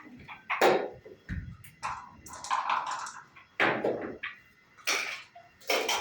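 Backgammon checkers and dice clacking on a wooden board during play: several sharp knocks, about four, with a short rattle in between.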